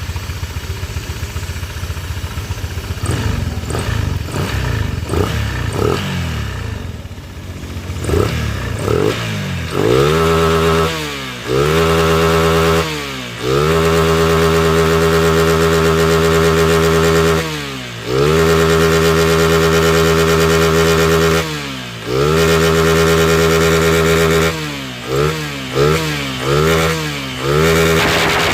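Honda Vario scooter's single-cylinder four-stroke engine running unevenly for about nine seconds, then revved hard in a stationary full-throttle test. It makes several long holds at a steady high pitch, each dropping back briefly, then a run of quick short blips near the end.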